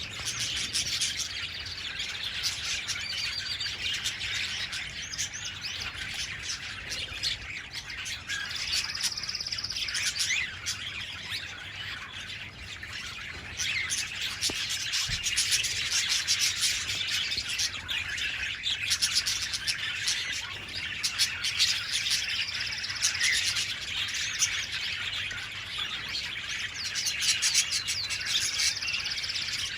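Budgerigars chattering and warbling without pause: a dense stream of high chirps, with a few short held whistles.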